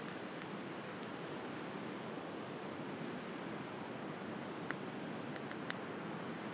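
Steady wash of sea waves, with a few sharp crackles from a burning wood bonfire in the second half, the loudest near the end.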